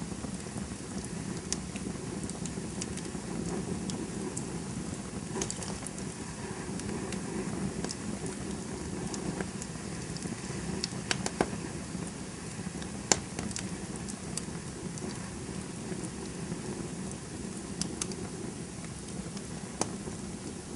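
Campfire burning with a steady low rumble of flames and scattered sharp crackles and pops from the burning wood, a few louder pops about eleven and thirteen seconds in.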